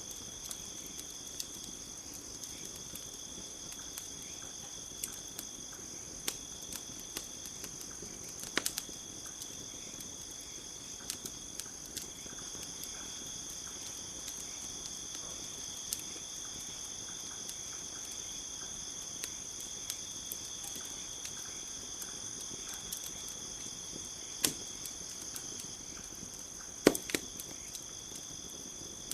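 Campfire crackling with scattered sharp pops, the loudest a little past a third of the way in and near the end, over a steady high chorus of crickets.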